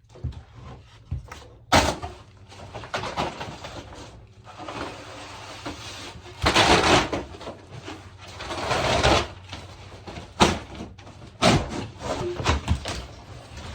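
Cardboard packaging of a boxed fridge freezer being opened and pulled away: scattered knocks and clunks, with a few longer stretches of tearing and scraping cardboard.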